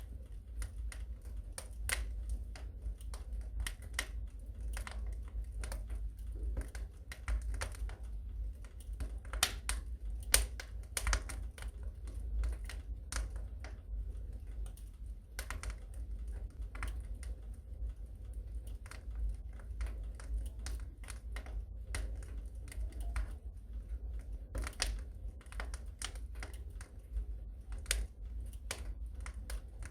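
Fire crackling in a fireplace: a dense, irregular run of sharp pops and snaps over a steady low rumble.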